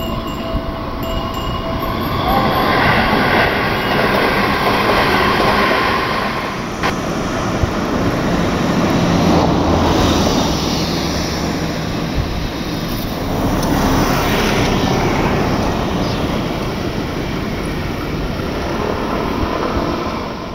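Seibu 2000-series electric train rolling slowly through the depot: continuous wheel-on-rail running noise that swells and fades several times, with a thin ringing wheel squeal in the first several seconds.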